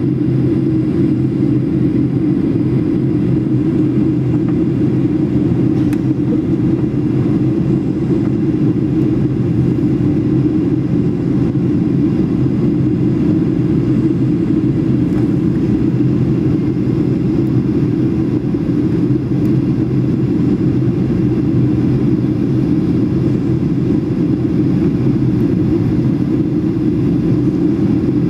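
Steady cabin noise of a Ryanair Boeing 737 in flight: the even roar of engines and airflow, heard from inside the passenger cabin.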